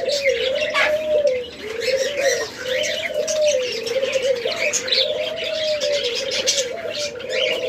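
A flock of captive doves cooing in many overlapping calls, with the quick high chirping of small cage birds over them.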